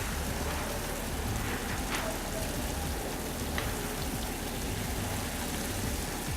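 Crepe batter sizzling steadily in a hot oiled pan, just after a ladle of batter has gone in.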